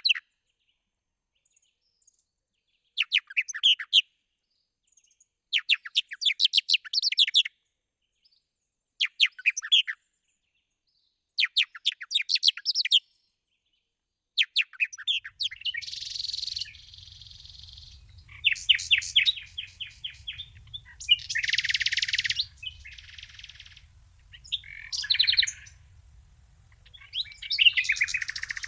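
Bird chirping in quick trilled phrases of a second or two, repeated every few seconds with silence between. From about halfway a low background rumble comes in and the calls turn harsher and more varied.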